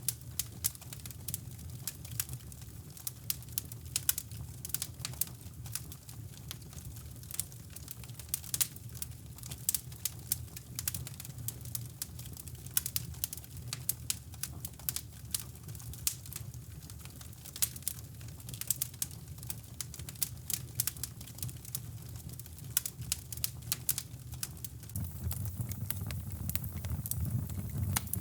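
Fireplace fire crackling with irregular sharp pops, over a steady low brown-noise rumble that grows louder near the end.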